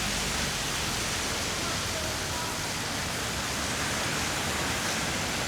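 Steady rushing noise from a bicycle being ridden: wind on the microphone and tyre hiss on the road.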